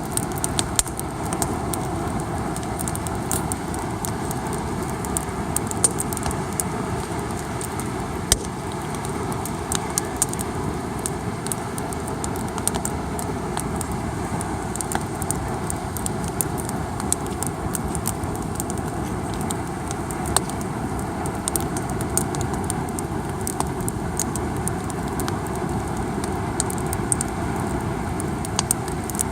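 Campfire crackling, with many small sharp pops and snaps over a steady rushing background.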